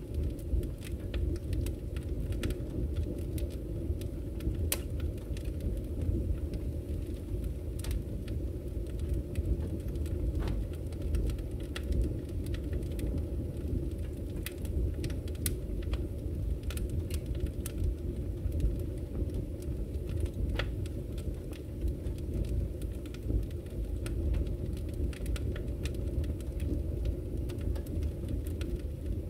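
Wood fire crackling in a fireplace: a steady low rumble of burning with frequent, irregular sharp pops and crackles.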